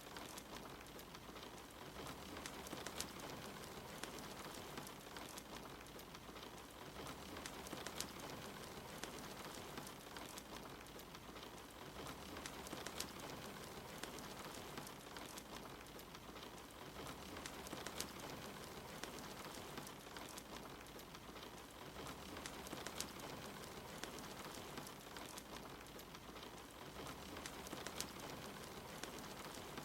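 Steady rain hiss with a wood fire crackling, sharp pops scattered through it. The same stretch repeats about every five seconds, a short ambience loop.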